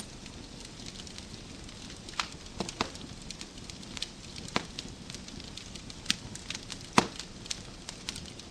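Wood fire crackling in a fireplace: a steady low hiss of burning logs with frequent sharp pops and snaps, the loudest pop about seven seconds in.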